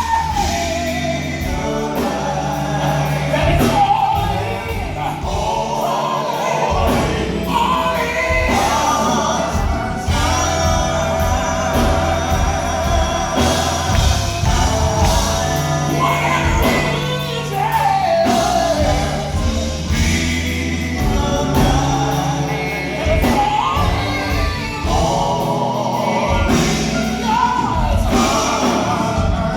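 Gospel song: a choir singing over instrumental backing with a steady bass line.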